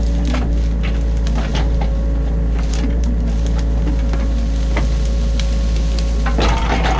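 New Holland E50.2 mini excavator working as heard from inside its cab: a steady diesel engine drone with a deep rumble, broken by frequent knocks and clicks, and a louder scraping rattle near the end.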